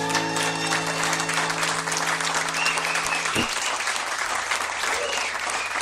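Audience applauding, with a few voices calling out. The song's final held chord rings under the clapping and stops about three seconds in.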